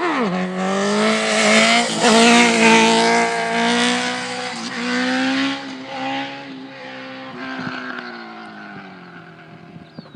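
Motorcycle engine running at high revs with a fairly steady pitch and small dips. It is loudest in the first few seconds, then fades away as the bike moves off.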